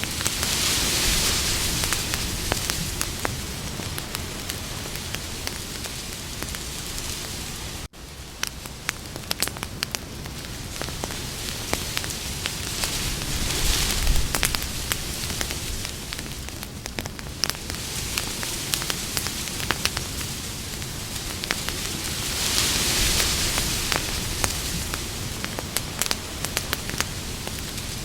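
Campfire burning with frequent sharp crackles and pops over a steady hiss that swells and fades several times. The sound drops out for an instant about eight seconds in.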